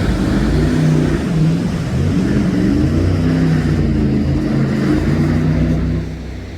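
Jet boat engine running hard at high revs, its pitch wavering up and down as the boat turns, fading about six seconds in.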